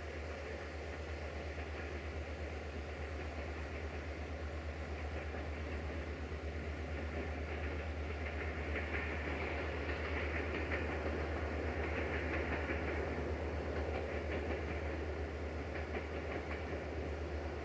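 Passenger train hauled by a GM/EMD-rebuilt CFR class 65 diesel-electric locomotive passing at a distance: a steady engine drone under the rumble and clicking of the coaches' wheels over rail joints, growing a little louder as it approaches.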